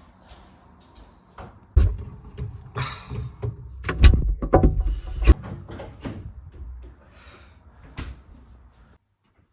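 A run of irregular knocks and bumps with low thuds, the loudest about four seconds in, cutting off suddenly near the end.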